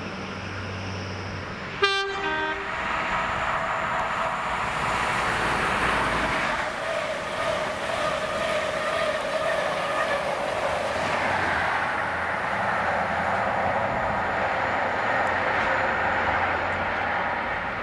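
A train sounds a short horn blast about two seconds in, then passes at speed. The running noise builds and holds, with a whining tone that drops slightly in pitch.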